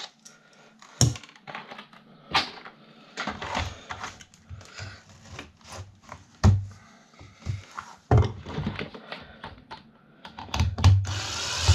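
Irregular clicks, knocks and clatter of tools and hard plastic and metal fan parts being handled while a desk fan is taken apart, with a denser, louder rattle near the end.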